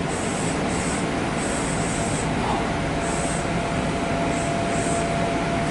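Kintetsu electric train standing at a station platform with its equipment running: a steady hum and hiss. A faint steady whine comes in about two seconds in, and short high-pitched hissing patches come and go.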